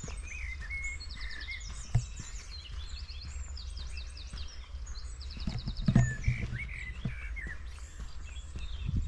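Small forest songbirds calling: high chirps and quick, rapid trills repeated throughout, over a steady low rumble. A few footsteps on the forest floor sound about six seconds in.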